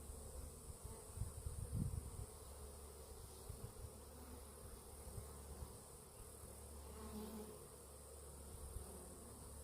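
Honeybees buzzing steadily around an upset hive that has been knocked over. A few low thumps on the microphone come about a second in.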